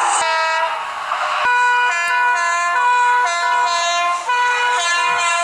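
Multi-tone train horn sounding a long, loud chord that changes notes several times.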